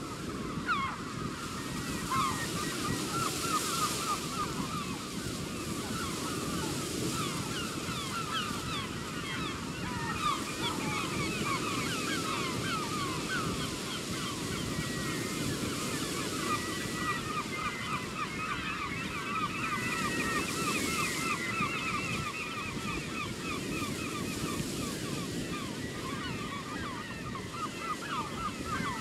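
A large flock of birds calling continuously, many short overlapping calls, over the steady wash of surf and wind on the coast.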